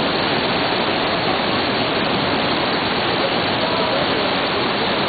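Waterfall of more than 30 m pouring down: a loud, steady rush of falling water that does not change.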